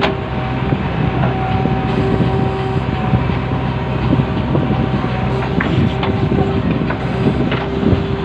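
JCB 3DX backhoe loader's diesel engine running steadily while the machine works, with a few sharp knocks from about halfway in.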